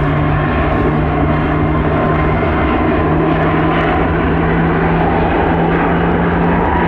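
Airliner engines running with a loud, steady noise and a low, unchanging hum underneath.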